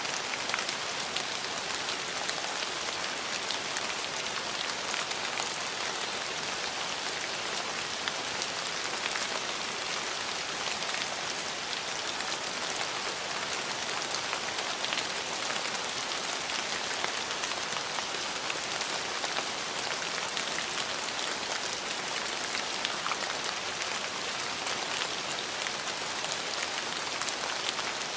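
Steady rain falling: an even hiss, with many small drop ticks scattered through it and no change in strength.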